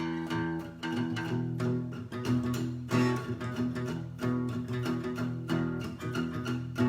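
Guitar playing the instrumental intro of a song: chords struck in a steady rhythm.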